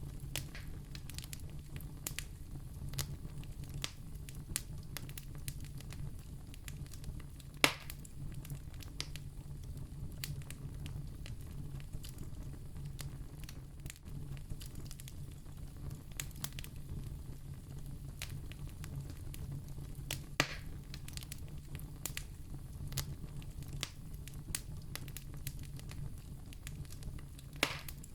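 Campfire burning with a steady low rumble and constant small crackles, and three louder pops from the burning wood, about a third of the way in, about two-thirds in and near the end.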